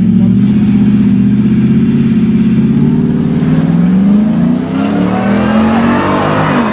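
Two V8 engines, a Ford SVT Lightning and a Chevrolet TrailBlazer SS, running hard. The engines hold steady revs at first, then climb in pitch under acceleration from about two seconds in, with a brief dip near five seconds like a gear change.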